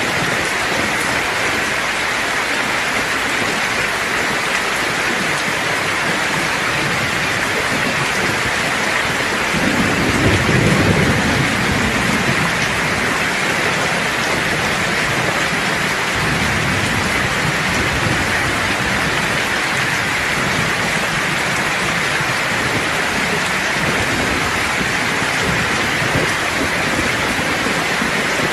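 Steady heavy rain hissing, with a low roll of distant thunder swelling about ten seconds in and fading over a couple of seconds, and fainter low rumbles later.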